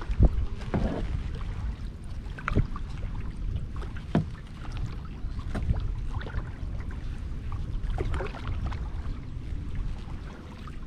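Kayak paddle dipping and splashing in lake water with each stroke, every second or two, over a steady low rumble.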